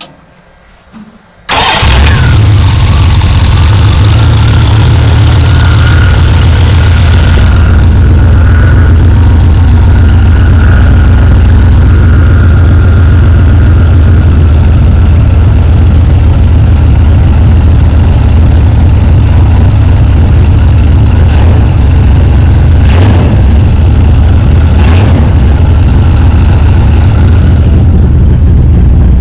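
1990 Dodge D150 pickup engine starting about a second and a half in, after its throttle body has been cleaned, then idling steadily and loud at close range. A hiss over the running engine drops away about six seconds after it starts.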